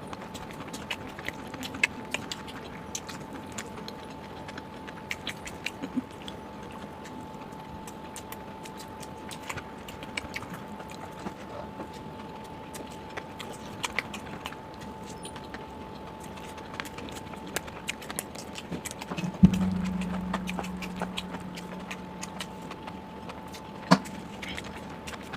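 Eating sounds: irregular small clicks and smacks of chewing and utensils, over a faint steady tone. About nineteen seconds in there is one louder knock with a low hum that fades, and another sharp click near the end.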